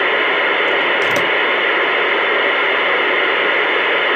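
CB radio receiver putting out loud, steady static hiss through its speaker, cutting in suddenly as the channel opens with no voice on it.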